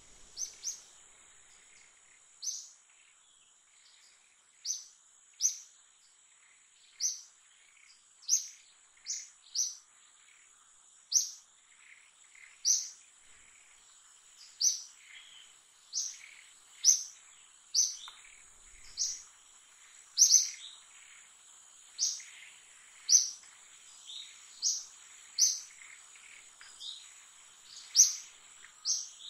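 A bird repeating a short, high chirp about once a second, over a faint steady high-pitched whine.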